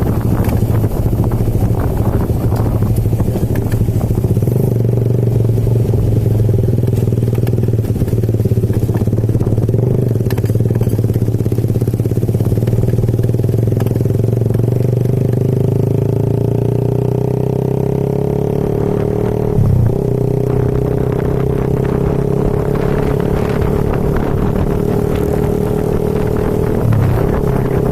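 Motorcycle engine running steadily while riding, its pitch dropping briefly and recovering twice, about two-thirds of the way through and again near the end.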